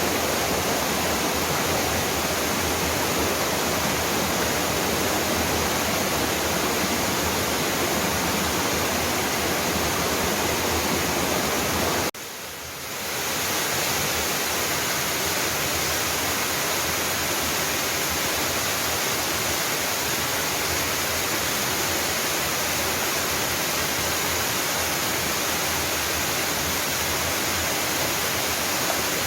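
Mountain waterfall rushing in a steady, even roar of falling water. About twelve seconds in, the sound drops off suddenly and fades back up within a second or two.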